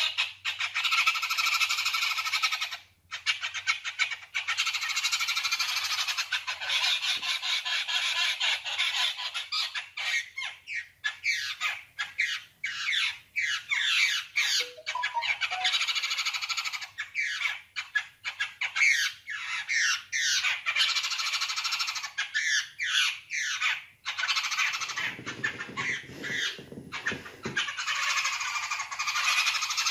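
A flock of small birds chirping and chattering densely, many quick falling calls overlapping, with a few brief lulls. A short burst of low knocking comes near the end.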